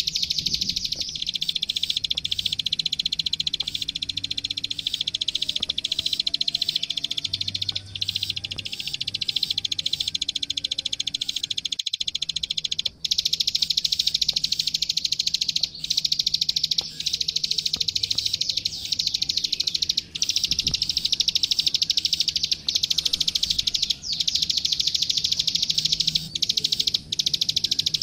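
Plain prinia (ciblek sawah, the 'klik-klik' bird) singing a continuous, very fast trill of high clicking notes, broken by short pauses every few seconds in the second half.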